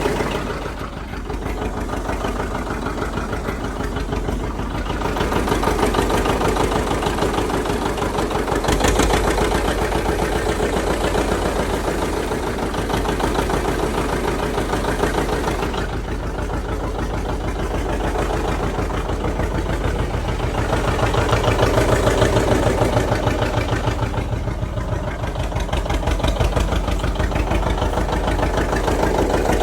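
An engine running steadily with an even, rapid pulse, its level swelling and easing slightly from time to time.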